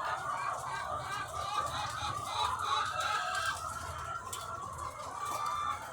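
A large flock of egg-laying hens clucking and calling all at once, many voices overlapping in a steady din, over a low steady hum.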